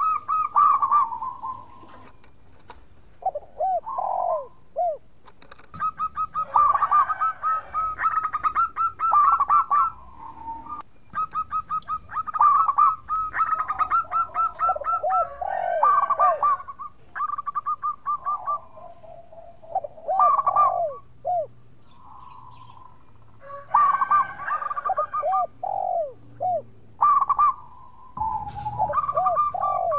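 Zebra dove singing: phrase after phrase of quick staccato cooing notes mixed with short looping coos, separated by brief pauses.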